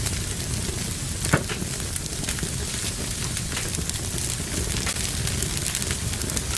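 Wood fire burning in a fireplace, crackling steadily with many small pops and one loud crack a little over a second in.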